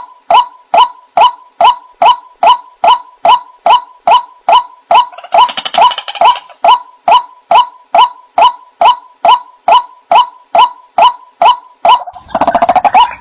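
White-breasted waterhen (ruak-ruak) calling: a loud, monotonous string of short notes, about three a second, each dropping slightly in pitch. A burst of harsher, faster chattering joins in about five seconds in and again near the end.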